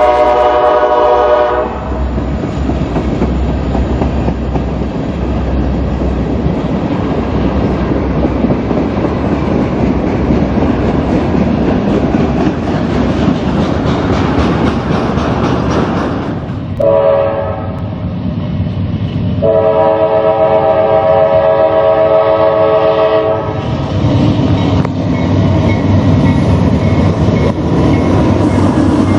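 Train horn blowing several notes at once, stopping about a second and a half in, then the steady rumble and clatter of a passing train. The horn blows again twice, a blast from about 17 seconds and a longer one from about 20 seconds, and the rumble carries on after.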